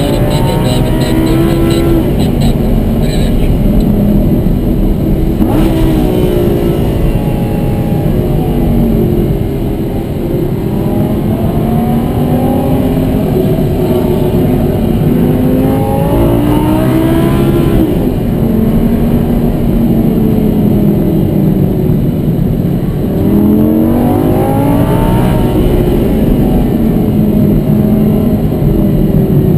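Lamborghini Gallardo's V10 engine heard from inside the cabin, driven hard on track: the engine note climbs in pitch as it revs up, then drops back at each gear change, over and over.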